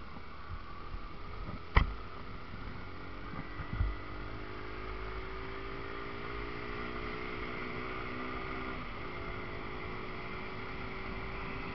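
Yamaha Factor motorcycle's single-cylinder engine running under way, its pitch climbing slowly, with a short break near nine seconds in before it settles steady. A sharp knock about two seconds in and a smaller thump near four seconds.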